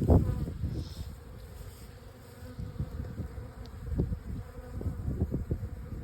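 Honey bees buzzing in a steady hum around an open hive holding a freshly hived swarm, with irregular soft bumps and knocks, the loudest right at the start.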